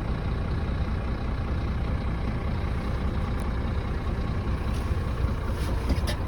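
Scania R440 tractor unit's 13-litre straight-six diesel idling steadily and evenly, with a couple of faint ticks near the end.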